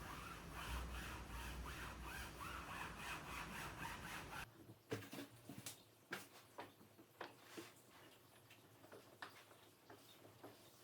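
Rhythmic scrubbing or rubbing strokes, about two a second, for the first four seconds or so. After an abrupt cut come scattered light clicks and taps.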